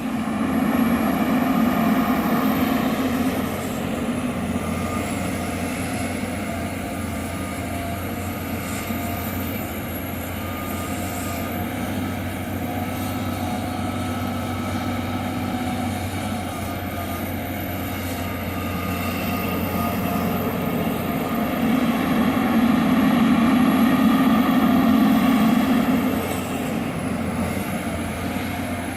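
John Deere 350G LC hydraulic excavator's diesel engine running steadily, growing louder under hydraulic load twice: about a second in, and again for a few seconds about three-quarters of the way through.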